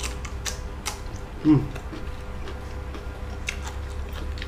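Close-up crunching and chewing of a raw winged bean, a series of short crisp clicks, with a brief hummed "mm" from the eater about a second and a half in. A steady low hum runs underneath.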